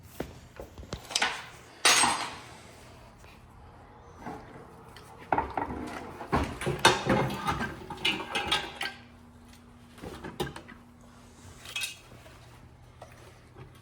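Metal transmission parts clinking and knocking as they are handled, in irregular bursts that are busiest in the middle.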